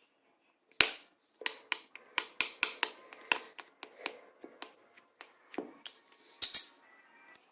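Light-green slime being handled and squeezed, giving a string of sharp, irregular popping clicks as air pockets burst, with two louder pops about a second in and near the end.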